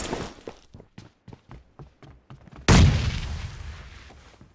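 Shooter video game sound effects: a run of scattered gunshots, then a loud explosion a little over halfway through that dies away slowly.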